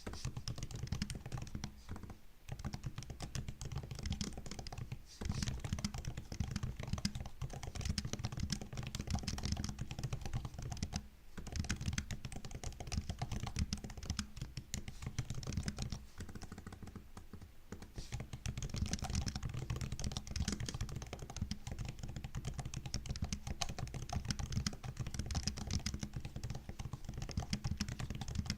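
Typing on a MacBook laptop keyboard: a steady run of quick, light key clicks, broken by a few brief pauses.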